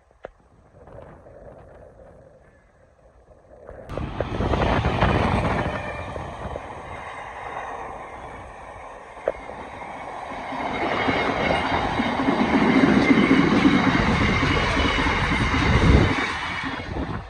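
A train passing close by at speed: a loud rush of rail and wheel noise that starts suddenly about four seconds in, swells again later, and drops away near the end.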